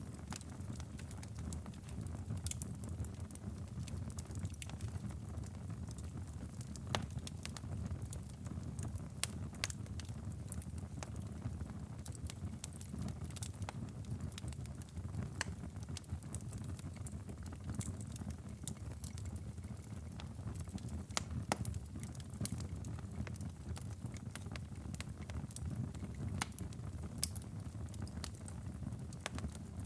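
Wood fire in a fireplace crackling and popping, with irregular sharp snaps over a steady low rumble.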